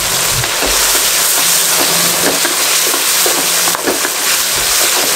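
Capsicum and onion in a ketchup and soy sauce mixture sizzling over a high flame in a wok, stirred with a wooden spoon that scrapes against the pan. The sizzle is a loud, steady hiss.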